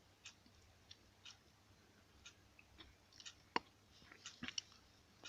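Near silence with scattered faint clicks and ticks, a sharper click about halfway through and a few quick ones soon after.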